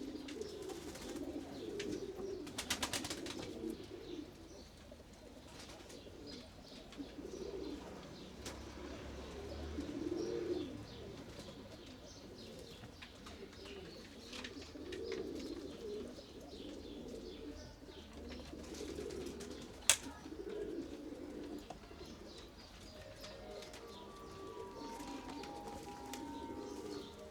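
Pigeons cooing again and again in low, warbling calls, with scattered light clicks and one sharp click about two-thirds of the way through.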